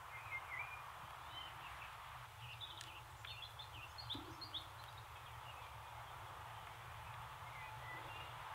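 Small birds chirping and twittering over faint steady outdoor background noise, with a brief cluster of calls a few seconds in.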